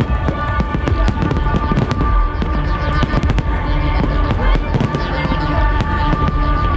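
Fireworks bursting in a rapid, continuous barrage of sharp bangs and crackles, over loud electronic dance music with held synth tones and heavy bass.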